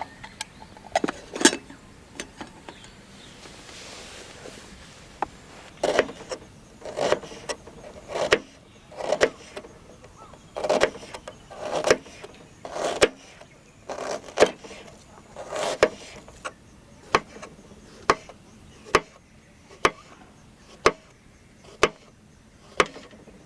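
A steady series of knocks, about one a second: fuller thuds at first, turning into sharper, evenly spaced clicks in the second half.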